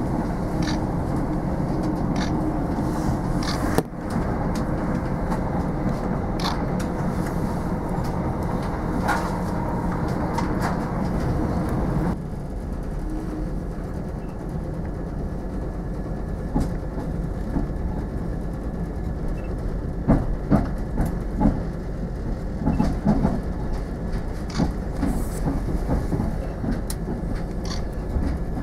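Running noise inside a moving diesel passenger train: a steady rumble and engine hum that drops to a quieter level about halfway through. A scattering of short clicks and knocks from the wheels on the track follows.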